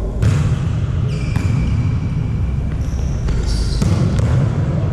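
Volleyball play: a ball is struck or bounces sharply about five times, with short high squeaks between the hits, over a steady low background noise.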